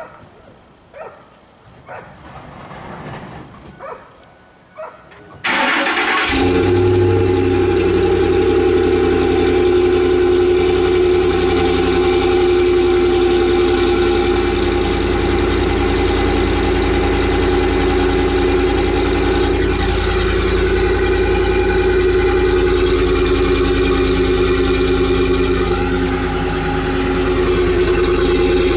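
A few faint clicks and knocks, then about five seconds in a 2008 Ford F-150's 5.4-litre V8 cranks briefly and starts. It settles into a steady, loud idle through its stock muffled exhaust.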